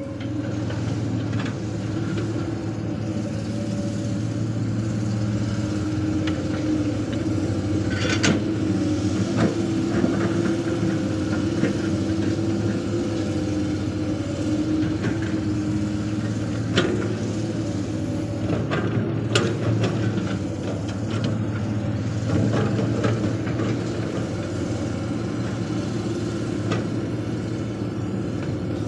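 Hydraulic excavator's diesel engine running steadily under working load, its pitch shifting slightly as the machine works, with a few sharp knocks scattered through.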